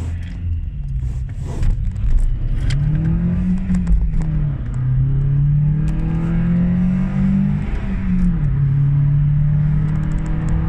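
Volkswagen Polo Mk3 engine accelerating hard through the gears. Its note climbs, drops at a gear change about four seconds in, climbs again, and drops at a second shift about eight seconds in, then holds steady.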